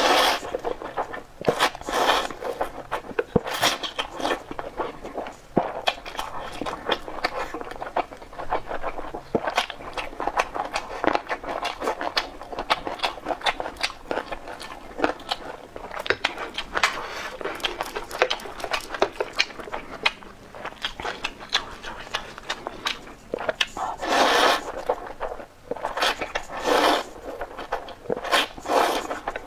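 Close-up eating sounds of homestyle noodles: constant wet chewing and mouth clicks, broken by several longer slurps, the loudest two a few seconds before the end.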